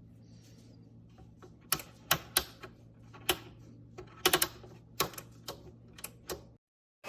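A run of about a dozen irregular, sharp clicks and clacks of hard objects, set against a faint low hum. The sound cuts to dead silence near the end.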